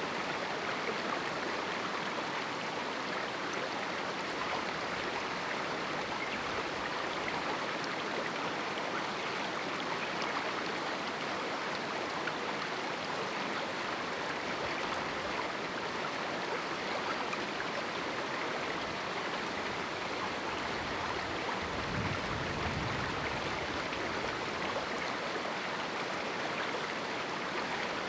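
River water flowing and rushing through a small rocky canyon, a steady even rush. A brief low rumble comes in about three-quarters of the way through.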